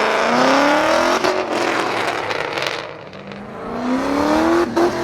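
Car engine accelerating hard, its pitch climbing, easing off about three seconds in, then climbing again near the end.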